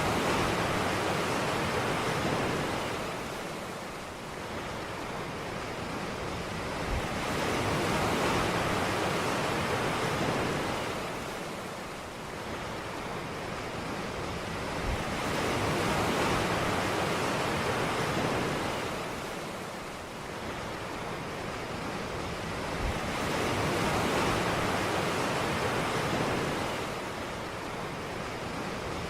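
Ocean surf on a beach: waves wash in and draw back, the noise swelling and easing about every eight seconds. A brief low thump comes shortly before each swell.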